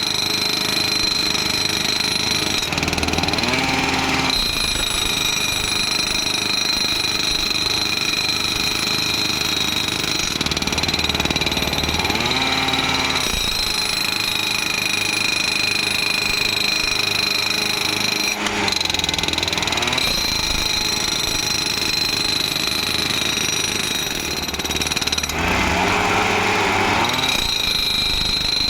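Powered ballast tampers running continuously, packing ballast under railway sleepers with a steady, jackhammer-like vibrating rattle and a high whine.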